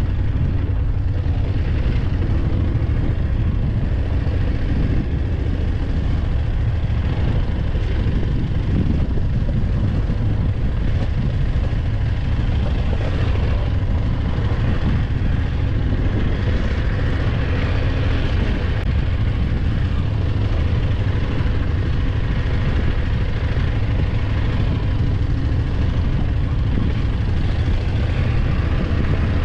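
BMW F850GS motorcycle's parallel-twin engine running steadily, with an even rush of noise over it.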